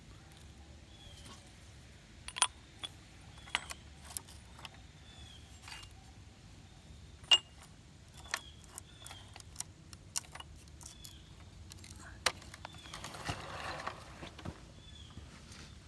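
Scattered sharp clicks and clinks of small hard objects being handled, with a short rustle about thirteen seconds in. A small bird calls again and again in the background.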